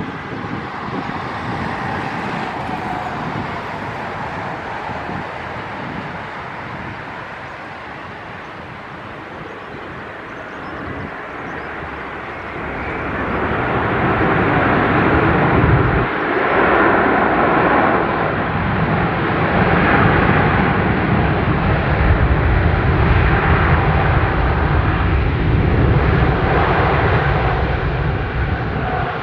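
Boeing 787-9 airliner on final approach, its jet engines growing louder about halfway through, then a loud, steady rush and rumble as it passes low overhead.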